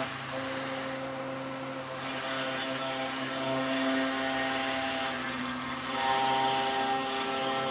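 CNC router machining stone: a steady motor whine over a hiss of cutting, its tones shifting and growing a little louder about six seconds in.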